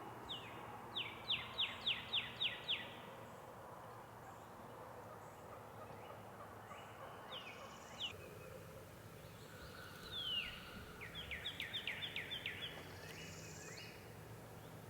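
Turkey yelping: a quick run of about eight falling notes a second in, and a second, longer run near the end, over faint outdoor background.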